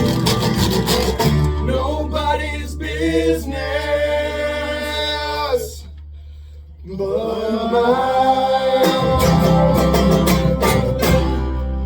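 Live folk band playing: a man singing over strummed and plucked banjo and guitar and a steady low bass, with a brief lull about six seconds in.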